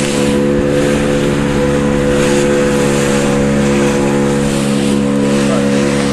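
Motorboat engine running steadily under way, with a rushing noise of water and wind that swells about once a second.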